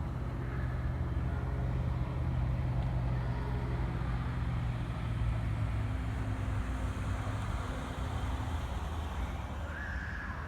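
A motor vehicle engine running with a steady low hum, its higher tone dropping out about eight seconds in.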